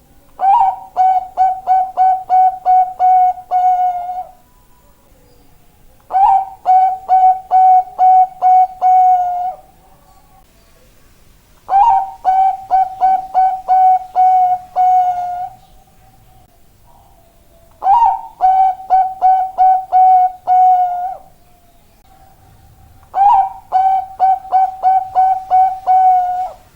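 Bangkok-type zebra dove (perkutut) cooing in its song: five phrases about every six seconds, each a quick run of about nine clear notes on one pitch, opening on a slightly higher note.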